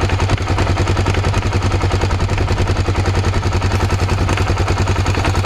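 Honda XR650L single-cylinder four-stroke engine idling steadily, with an even, repeating knock in its running: the engine knock the owner is showing.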